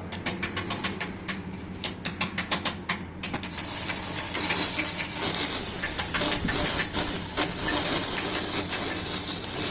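Metalwork on a steel JCB stabilizer: a fast, irregular run of sharp metal taps, then, from a few seconds in, a steady high crackling hiss.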